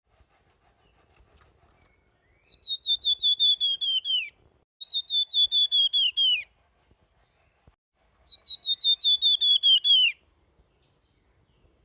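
Songbird of the kind Indonesian bird-keepers call flamboyan, singing three phrases, each a fast run of about a dozen high, clear whistled notes that sag slightly and end in a downward slur.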